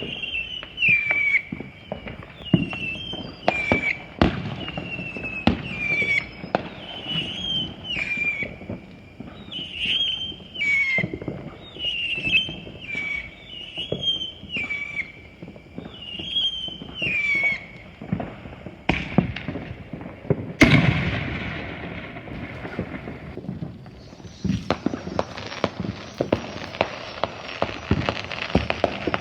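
Consumer fireworks and firecrackers popping and banging, with one loud bang about two-thirds through and dense crackling afterwards. A high call falling in pitch repeats about once a second over the pops until about two-thirds through.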